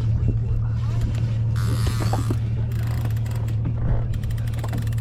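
Yamaha 250 outboard engine idling in neutral with a steady low hum, while a fishing reel ratchets with rapid, even clicks through the second half. A short rush of noise comes about two seconds in.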